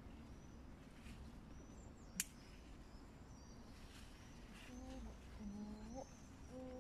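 Quiet garden ambience with faint, short bird chirps. There is one sharp click about two seconds in, and a faint low murmur in the last couple of seconds.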